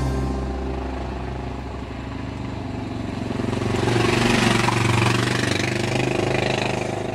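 Motorcycle engine running with road noise, growing louder to about four or five seconds in and then fading away.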